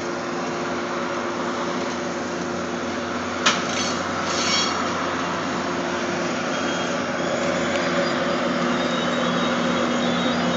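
Locomotive-hauled commuter train of Shoreliner coaches rolling past: steady diesel engine drone under the rumble of wheels on rail. There is a sharp metallic clank about three and a half seconds in, and the sound grows louder near the end as the locomotive draws level.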